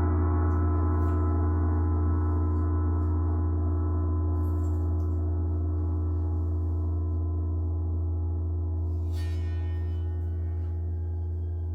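A deep, sustained ringing tone from a sound-bath instrument, rich in overtones with a slow wavering beat, gradually fading as it rings out. A brief higher sweep sounds about nine seconds in.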